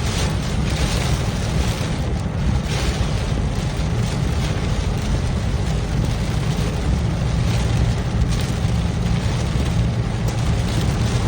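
Heavy storm rain and wind beating on a moving car, over the steady low rumble of the car driving. The rain comes in irregular heavier gusts.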